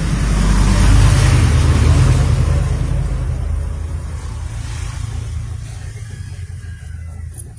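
A motor vehicle's engine running close by, a loud low rumble that is strongest about a second in and then fades away steadily as it passes.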